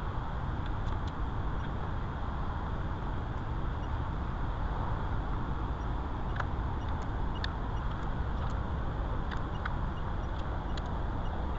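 Steady low rumbling background noise in a workshop, with scattered faint clicks and taps.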